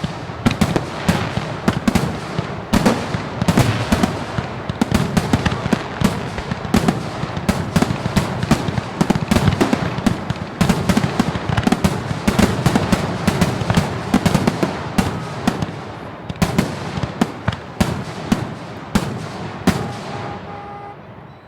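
Aerial fireworks display: a dense run of bangs and crackling, several per second, thinning out and fading in the last second or so.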